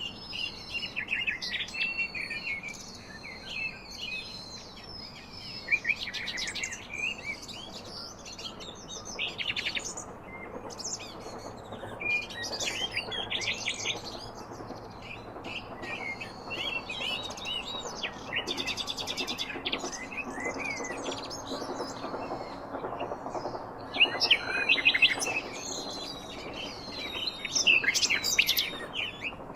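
Several songbirds chirping and singing together, with overlapping trills and quick runs of high notes, some louder bursts about a third of the way through and near the end.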